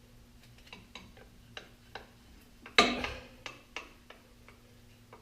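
Light, irregular metallic clicks and taps as clutch parts (release hub and throwout bearing) are handled and fitted, with one louder clank and short ring about three seconds in.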